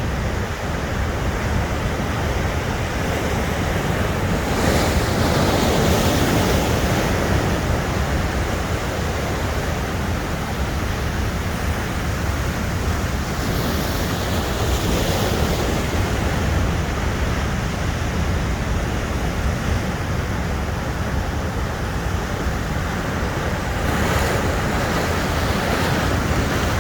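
Big ocean surf: a continuous roar of breaking waves, with heavier breakers crashing about 5, 15 and 24 seconds in. Wind rumbles on the microphone underneath.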